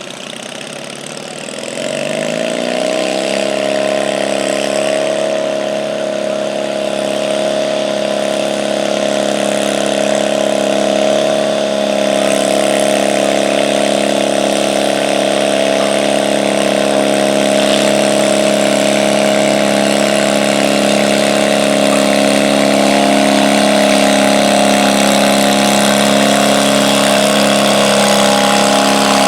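Garden pull tractor's engine revving up over the first few seconds, then held at a steady high speed, growing slowly louder.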